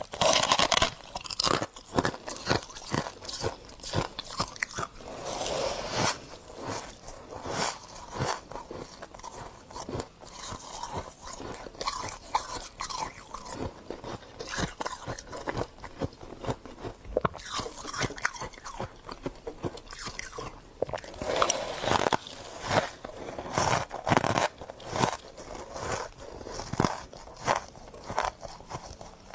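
Pink freezer frost being bitten and chewed close to the microphone: many sharp, irregular crunches, with louder clusters of bites every few seconds.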